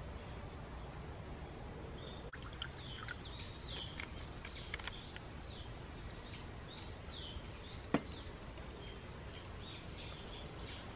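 Songbirds chirping over and over in a forest, with a steady low background rumble. A single sharp click about eight seconds in.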